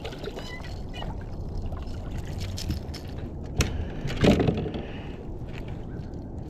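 Water sloshing and splashing around a kayak over a steady low rumble, with a sharp click about three and a half seconds in and a louder splash or knock just after.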